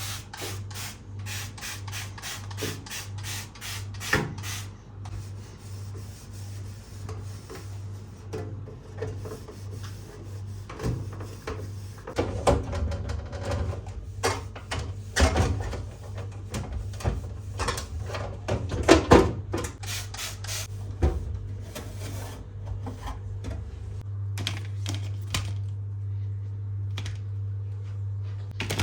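Items being handled and set down while a refrigerator is organised: irregular light clicks, knocks and rustling, with a few louder knocks, over a steady low hum.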